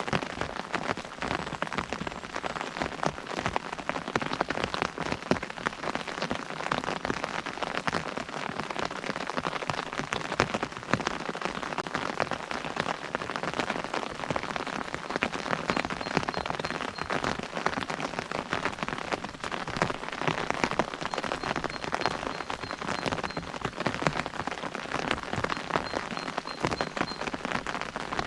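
Steady rain falling on an umbrella, a dense run of drops striking the canopy without a break.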